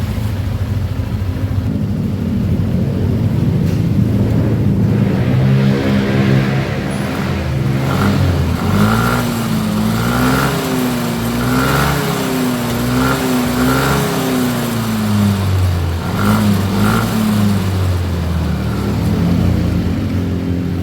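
Yamaha NMAX scooter's single-cylinder engine running and being revved, its pitch rising and falling in a string of quick blips in the middle, then settling, as the scooter is tested after final gear (gardan) work.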